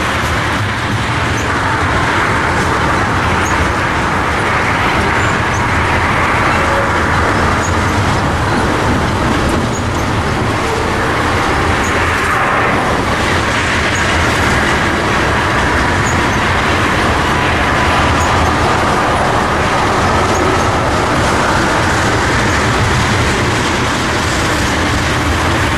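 A loaded crude-oil freight train's tank cars rolling past at close range: a steady, loud rumble of steel wheels on the rails, with a few faint brief high squeaks.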